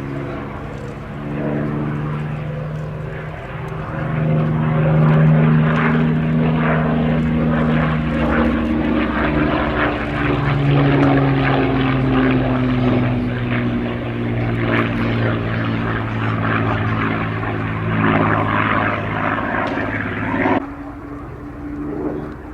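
Rolls-Royce Merlin V12 piston engine of a warbird flying overhead, running loud with its pitch shifting as it passes and changes power; the sound drops away suddenly near the end.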